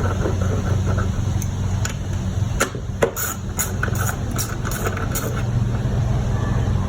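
A steady low hum, with a handful of sharp clicks and knocks about halfway through.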